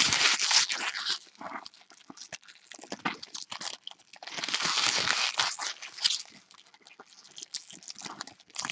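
A baseball card pack wrapper being torn open and crinkled in two bursts, about a second long each, near the start and about halfway through, with small clicks of cards being handled in between.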